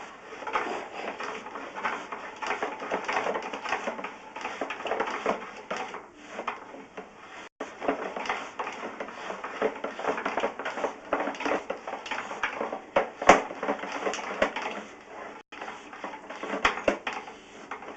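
Irregular clicking, rattling and scraping from sewer inspection camera gear as the camera cable is worked through a long drain line, with a sharper click about two-thirds of the way through.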